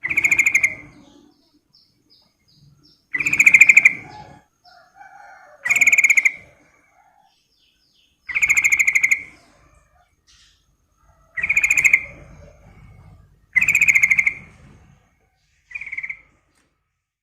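Yellow-vented bulbul (trucukan) calling: a series of seven loud, rapid trilled phrases, each about a second long and repeated every two to three seconds, with soft chirps in between; the last phrase near the end is short.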